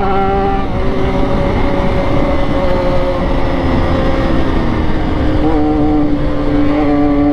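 Triumph Daytona 675R's inline-three engine running at steady cruising revs, its pitch nearly level with a slight drop partway through, over a rush of wind noise.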